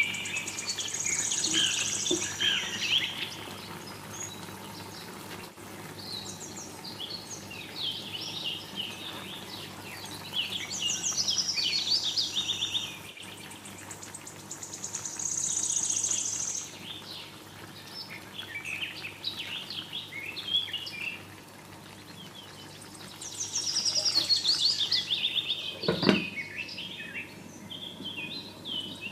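Small birds chirping and trilling in repeated bursts of high, quick notes, with one sharp knock near the end.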